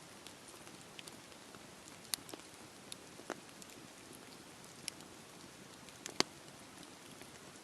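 Rain falling around a crackling campfire: a steady hiss with a few scattered sharp pops, the loudest about six seconds in.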